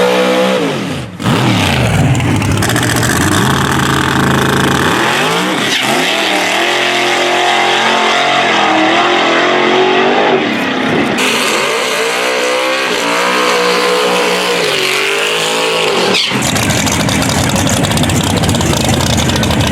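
Drag racing car engines revving hard and accelerating, their pitch repeatedly climbing and falling. A brief drop comes about a second in, and after about sixteen seconds the engine sound gives way to a steady noise with no pitch.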